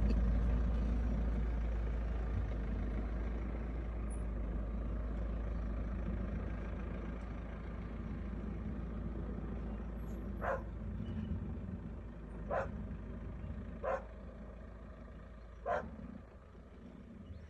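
Steady low rumbling noise that slowly fades, then a dog barking four times in the second half, one bark every one and a half to two seconds.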